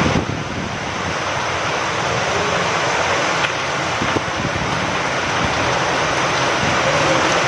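Steady heavy rain with wind, a dense even hiss with a couple of faint ticks a few seconds in.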